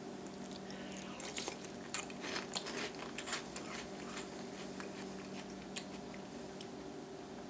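A person chewing a mouthful of crunchy breakfast cereal soaked in milk, with many small irregular crunches and mouth clicks. A steady faint hum runs underneath.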